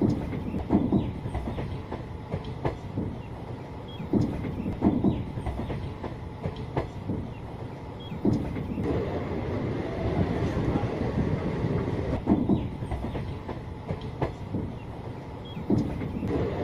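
A moving passenger train: a steady rumble with the wheels clacking over rail joints in uneven groups of knocks every second or two.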